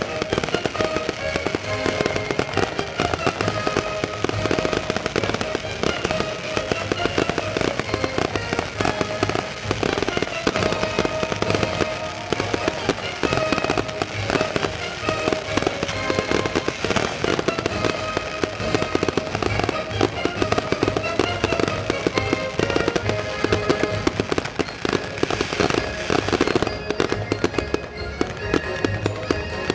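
A continuous barrage of fireworks, bangs and crackles coming thick and fast with no let-up, while music plays along with the display.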